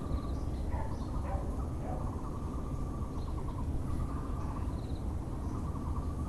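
Muller's barbet calling a long series of rapid, repeated hollow notes, with other small birds chirping higher above it, over a steady low background rumble.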